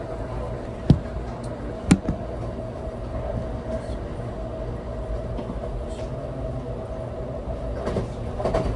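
Passenger train running, heard from inside a car: a steady low rumble with a steady hum over it, and two sharp knocks about a second apart near the start.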